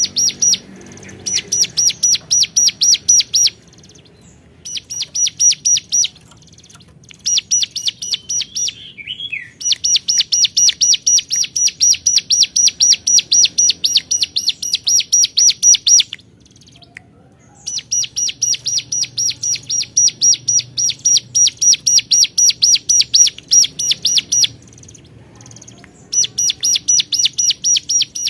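Ciblek gunung (hill prinia) singing loud bouts of a rapid, evenly repeated high note, about seven or eight notes a second. The bouts run from one to seven seconds and are separated by short pauses.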